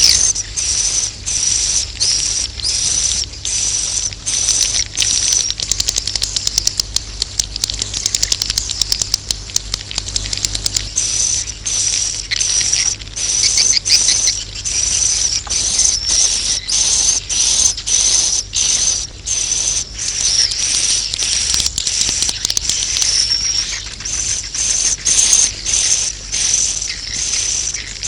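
Swiftlet calls: high chirps repeating about twice a second, with a stretch of dense, rapid clicking partway through. This is a 'roosting' call lure sound (suara walet inap), played to attract swiftlets to settle in a bird house.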